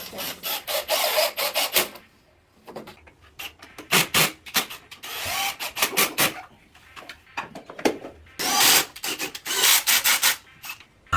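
Hand work with rubbing and rasping strokes, in three bouts of quick scraping with short pauses between.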